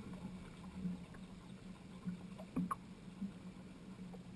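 Boat motor running steadily with a low hum, with a few light knocks, the clearest about two and a half seconds in.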